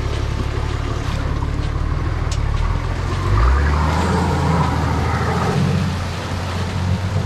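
Four-wheel-drive vehicle's engine pulling at low revs as it crawls over a rough creek-crossing obstacle. About three and a half seconds in, the revs rise and the engine gets louder for a few seconds.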